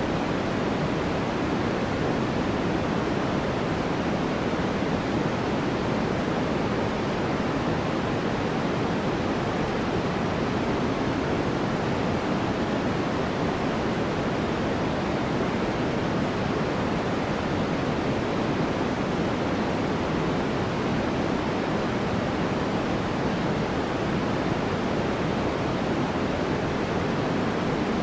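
Steady, unbroken noise of a sleep white-noise track: an even rushing hiss, fuller in the low and middle range than in the treble, with no changes or events.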